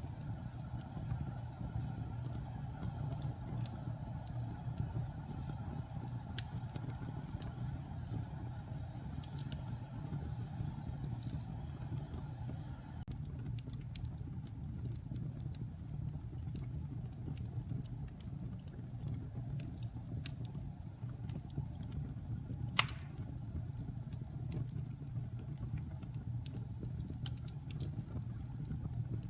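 Wood fire crackling in a fireplace: a steady low rumble of flames with scattered small pops, and one sharp, loud crack about two-thirds of the way through. A faint hiss stops a little before halfway.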